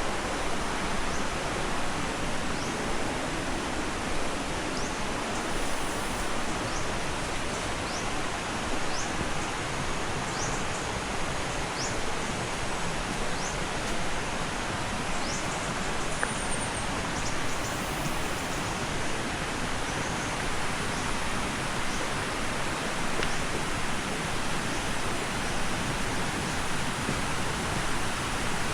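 Waterfall pouring steadily, an even rushing noise with no break, and faint short high chirps over it during the first half.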